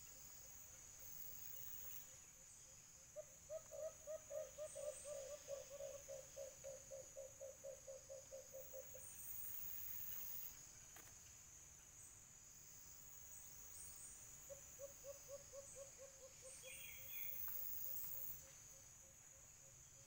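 White-eared brown dove calling: a run of quick low hoots, about four a second, that swells and then fades, given a few seconds in and again more softly about fifteen seconds in. A steady high insect buzz lies under it.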